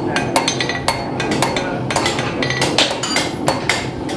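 Blacksmith's hammer blows on an anvil, several a second at an irregular pace, each strike ringing briefly with a metallic tone.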